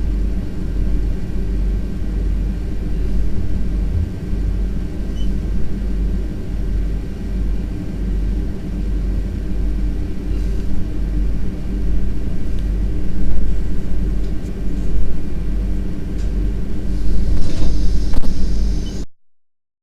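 VIRM double-deck electric train running on the line, heard from inside its rear cab: a steady, loud low rumble with a few steady tones above it. A brief high hiss comes near the end, and then the sound stops abruptly.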